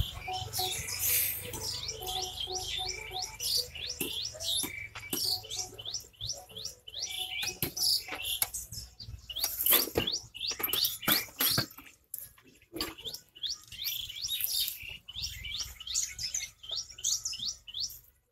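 Birds chirping busily: many short, downward-sliding chirps in quick, overlapping succession, thickest in the middle and thinning out near the end.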